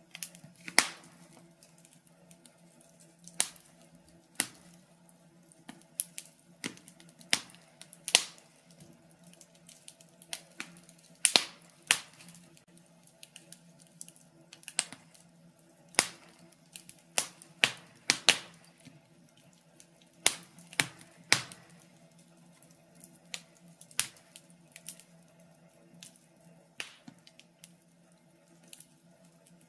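Wood fire crackling in a fireplace: sharp, irregular snaps and pops, some louder than others, over a faint steady low hum.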